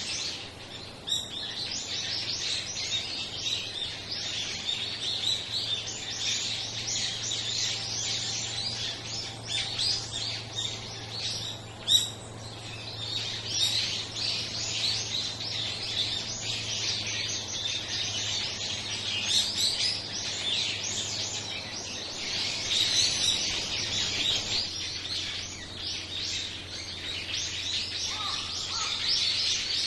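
A flock of small birds calling all at once, a dense chatter of many overlapping short chirps. One sharp tap stands out about twelve seconds in.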